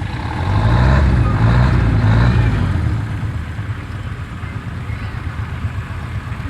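Tractor engine running, growing louder from about half a second in and easing back after about three seconds.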